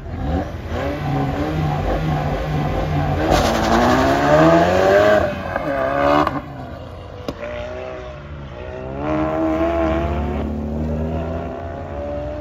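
Ford Focus hatchback driven hard in a drift, its engine revving up and down in repeated sweeps. The engine is loudest about four to five seconds in, with a broad tyre hiss over it. It eases off around six seconds in and revs up again around nine to eleven seconds.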